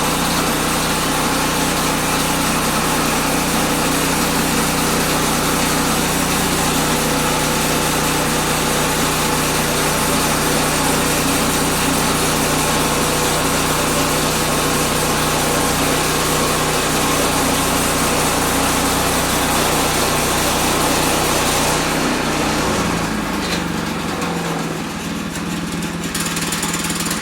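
Woodland Mills bandsaw sawmill running steadily under its small gas engine as the blade cuts through a pine log. Near the end the engine note drops and the sound quietens.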